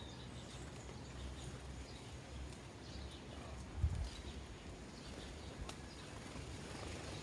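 Sparrows chirping faintly at bird feeders, with a few light clicks. A low thump about four seconds in.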